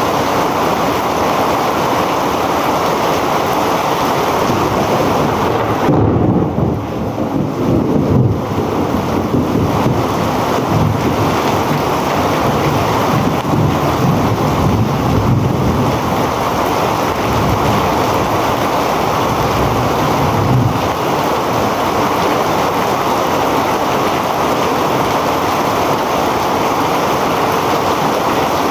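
Heavy rain falling in a steady, loud hiss. From about six seconds in to about twenty-one seconds, uneven low rumbling rises under it, then fades back to the rain alone.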